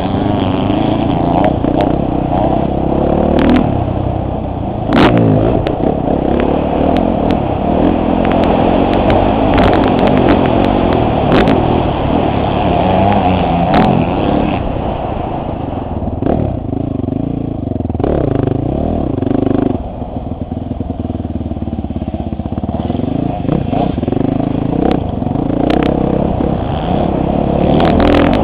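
Motocross bike engine heard from the rider's helmet camera, revving up and down as the throttle is worked, with scattered sharp knocks and clatter. The loudest knock comes about five seconds in, and the engine eases off briefly around twenty seconds.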